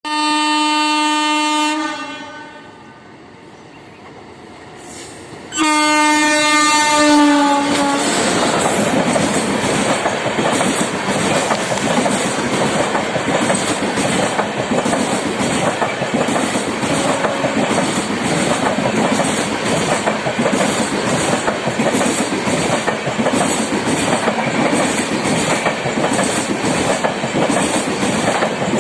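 Two blasts of a passenger train's horn, the second dipping slightly in pitch as it ends, then the train running steadily with its wheels clattering over the rail joints.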